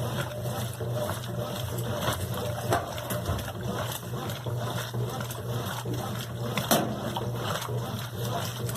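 Brastemp BWQ 24 washing machine running with water in the tub: a steady motor or pump hum under sloshing water, with small knocks and splashes, one a little louder near the end.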